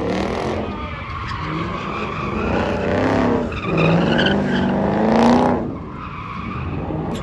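Car engine revving hard with tires squealing and skidding on the pavement, the engine note rising in repeated surges with the loudest about five seconds in.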